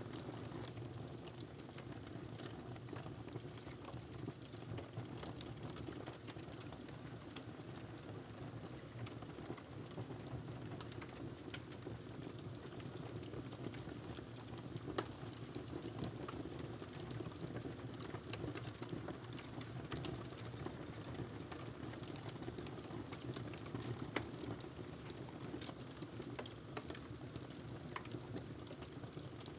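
Wood fire crackling in a fireplace: irregular small snaps and pops over a steady low rumble, with a louder snap about halfway through and another near the end.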